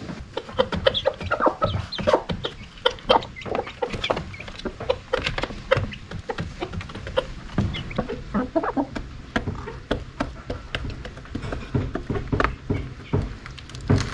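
A group of chickens calling, with many short calls close together and overlapping.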